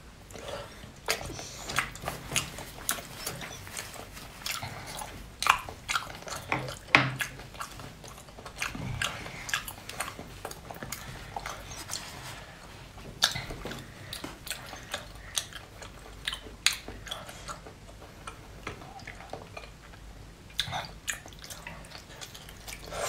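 A person biting into and chewing a whole cooked octopus: wet chewing with irregular sharp mouth clicks and smacks.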